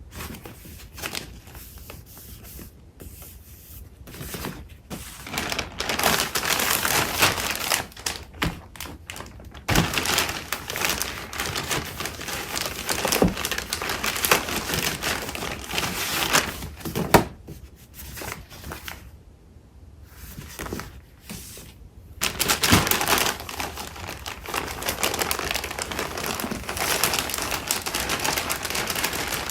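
Paper crafting supplies being handled and sorted by hand: sheets of paper and cardstock shuffling, rustling and crinkling. The handling grows busier after a few seconds, eases off briefly about two-thirds of the way through, then picks up again.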